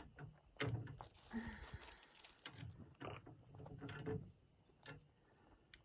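Scattered metal clicks and knocks of the camper tie-down turnbuckles' FastGun locks being unlocked and handled.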